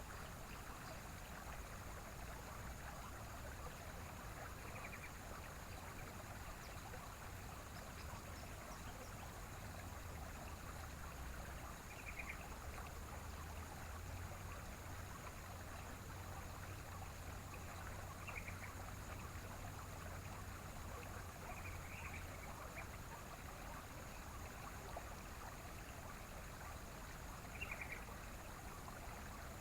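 A yellow-vented bulbul gives about five short chirping calls, several seconds apart. Behind them runs a steady rushing noise like a stream.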